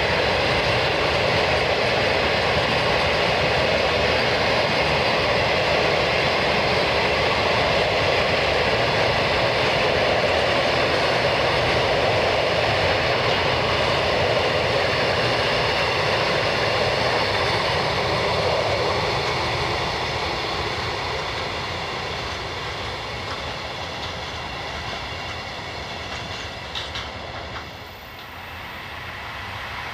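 A train running past, its noise loud and steady for the first two-thirds, then fading away as it moves off, with a few faint clicks near the end.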